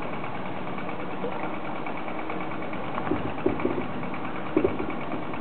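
A boat engine running steadily, with a few short sounds rising briefly above it about three seconds and four and a half seconds in.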